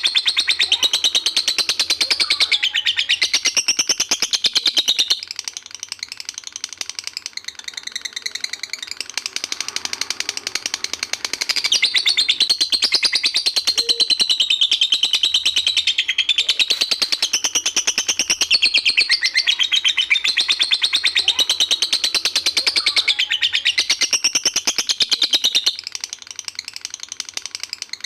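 Lovebird singing its 'ngekek' song, a long, very rapid chattering trill. Two long loud bouts, a short one at the start and a much longer one from about a third of the way in, with softer chatter between them.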